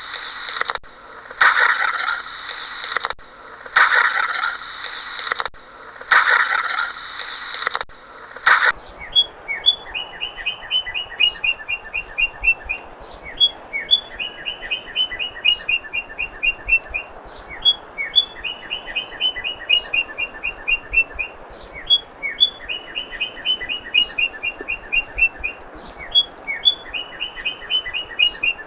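Four harsh, noisy calls about two seconds apart open the stretch. A songbird then takes over, repeating the same short song about every three and a half seconds: one or two sharp rising chips followed by a quick trill of evenly spaced notes.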